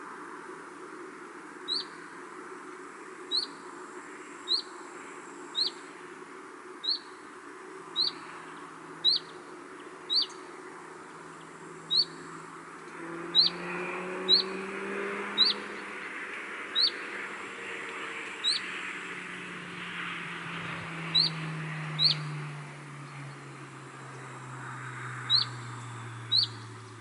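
A small bird repeating one short, high chirp about once a second, now and then skipping a beat, over a steady outdoor hiss. A low drone comes in about halfway through and slowly falls in pitch.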